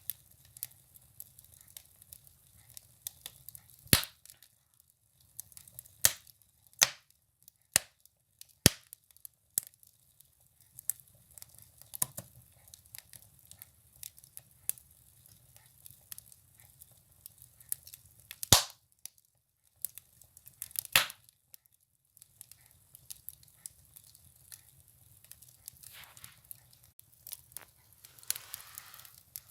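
Firewood burning in a wood stove, crackling with irregular snaps and a few loud sharp pops spaced seconds apart. A brief soft hiss rises near the end.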